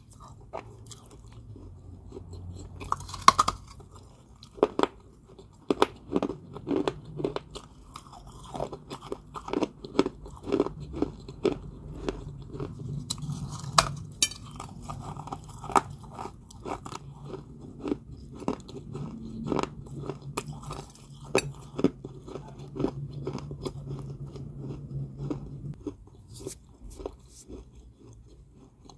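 A person biting and chewing crunchy balls of Georgia white clay (kaolin) close to the microphone: many sharp, irregular crunches, fewer in the last few seconds.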